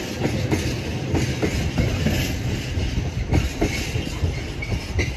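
Railway passenger coaches rolling slowly past, their wheels clicking irregularly over the rail joints above a low rumble.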